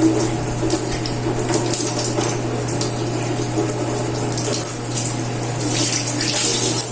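Water running from a tap, with a few light knocks, over a steady low hum.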